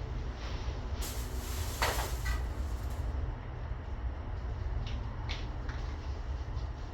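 Aerosol spray can spraying primer in one hiss of about two seconds, starting about a second in, with a few sharp clicks before and after it over a steady low rumble.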